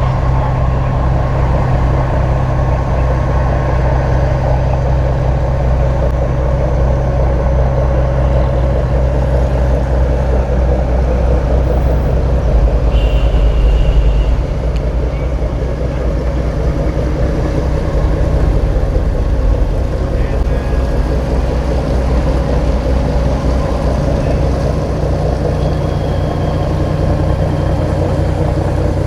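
A boat's engine running steadily, with a slightly louder stretch about halfway through.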